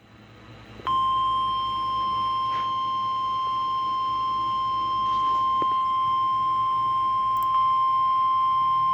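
NOAA Weather Radio warning alarm tone, the 1050 Hz attention signal sent before a warning broadcast, here a severe thunderstorm warning. A single steady high-pitched tone comes in sharply about a second in over faint radio hiss and holds without change.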